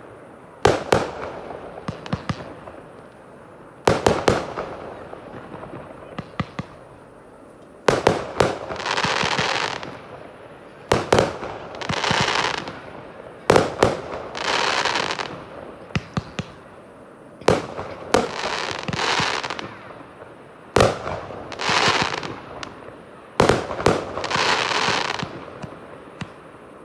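Fireworks display: about eight aerial shells bursting with sharp bangs every three to four seconds, most of them followed by a second or two of crackling as the stars burn out.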